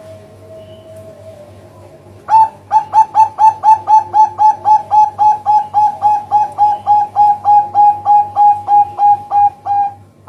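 Zebra dove (perkutut) giving a long run of short, evenly spaced coos, about three a second, starting some two seconds in, over a low steady hum. The calls are a perkutut lure call (pancingan) used to attract zebra doves.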